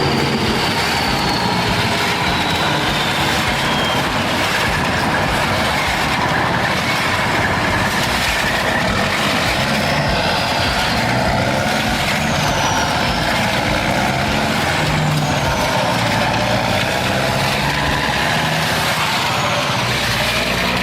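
Heavy farm-vehicle engine running steadily under load, with machinery noise and a few short, falling high-pitched squeals.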